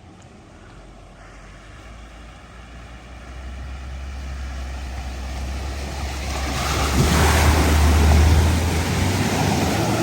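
A vehicle driving through deep flood water: its engine hum grows steadily louder as it approaches, and the splash of water thrown up by the wheels swells to its loudest about seven to eight seconds in.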